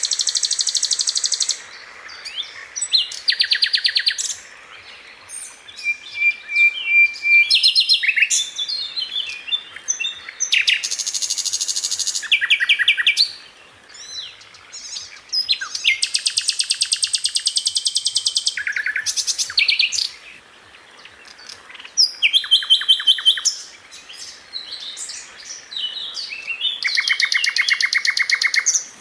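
Sikatan Londo flycatcher singing fast, high rattling trills. Each burst lasts one to two seconds, with short pauses between, and the phrases shift from one pitch to another.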